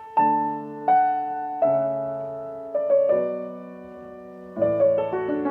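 Background piano music: slow, gentle chords struck about once a second and left to ring and fade.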